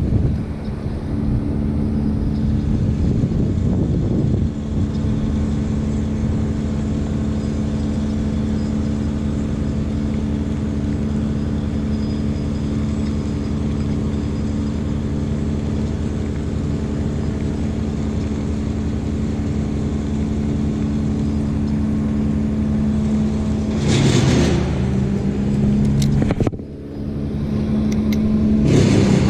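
Wind buffeting the microphone over a steady, even mechanical hum like a running engine. The noise swells sharply about 24 seconds in and again at the very end, with a brief drop between.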